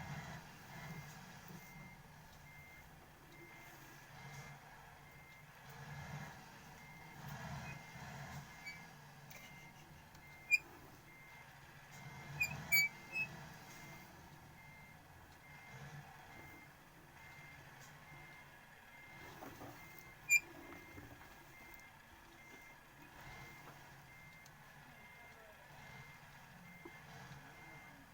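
A car's reverse warning beeper sounding a short, high beep over and over at an even pace while the car backs into a parking space, over a low engine hum. A few sharp clicks come around the middle.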